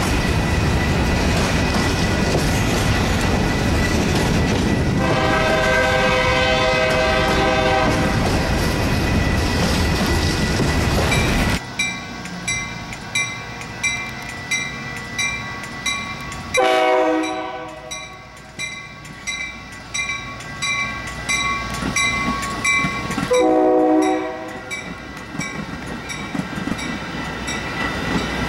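Freight train of covered hopper cars rolling past with loud, steady wheel and rail noise, and a train horn sounding for about three seconds partway through. Then the noise cuts off suddenly and a grade-crossing bell rings at an even pace while an approaching Metra commuter train sounds its horn twice, the blasts about seven seconds apart.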